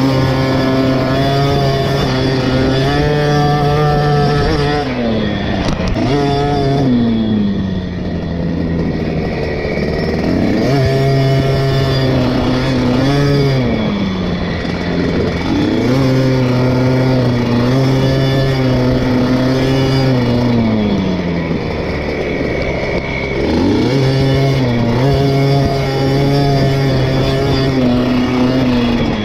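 KTM SX 50's small two-stroke single-cylinder engine running hard at high revs over a motocross lap, heard close from the onboard camera. Three times the pitch drops as the throttle comes off and then winds back up.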